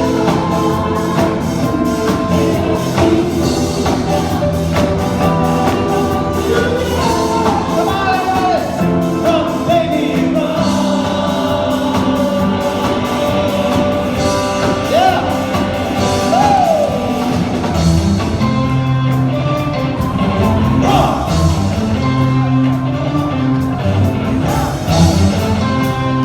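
Live band playing a disco song, with lead singing over bass, drums and keyboards.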